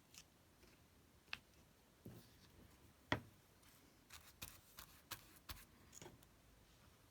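Quiet handling of paper-craft materials and tools on a work table: scattered light clicks and taps, the sharpest about three seconds in, then a quick run of them from about four to six seconds in.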